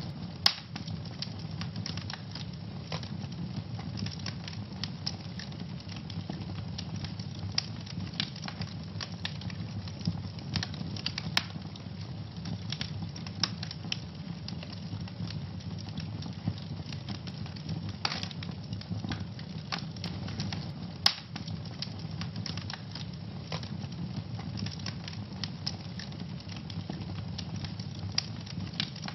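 Wood fire in a fireplace crackling steadily over a low rumble, with constant small snaps and a few sharper pops, the loudest just after the start.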